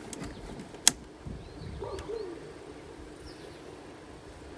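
A single sharp click about a second in, with faint bird chirps and a short low call over quiet outdoor background.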